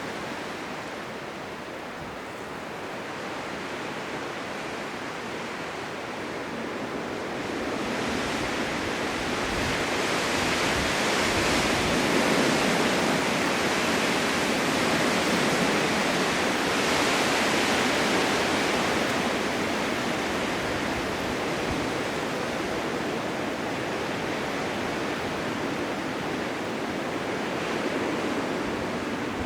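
Blizzard wind: a steady rushing noise that swells into a stronger gust from about eight seconds in, then eases off after about twenty seconds.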